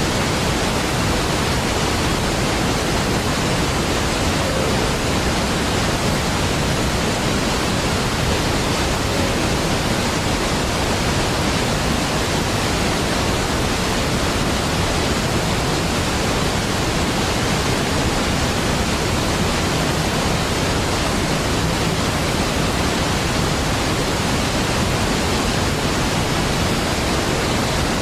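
Large waterfall: a steady, unbroken rush of falling water, full and even from deep rumble to hiss.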